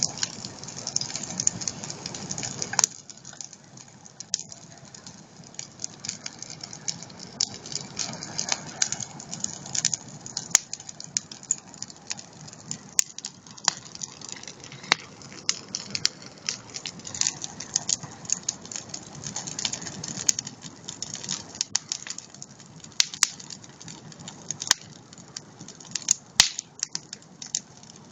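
Campfire crackling: wood popping and snapping in irregular sharp cracks over a low hiss. A louder rushing noise underlies the first few seconds and cuts off about three seconds in.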